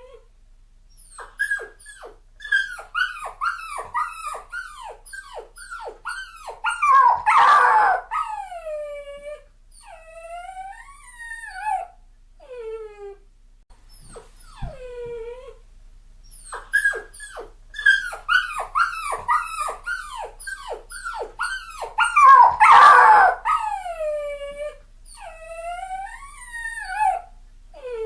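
A puppy crying: a quick run of short, high whimpering yelps builds to one louder cry. Several long, falling whines follow. The same sequence plays twice, as a loop.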